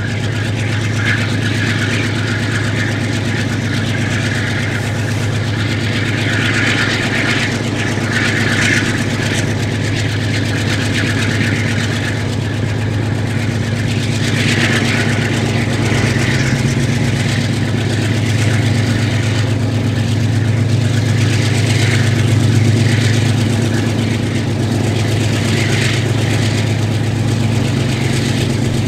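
Diesel locomotive engine running with a steady low drone, heard from aboard the moving train, with rushes of wheel and track noise over it.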